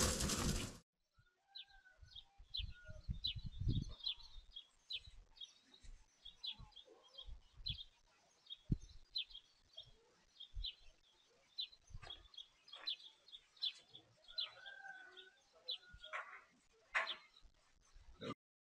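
Small birds chirping again and again in short high notes, picked up faintly by a security camera's microphone, with a few low thuds among them. A louder sound cuts off abruptly within the first second.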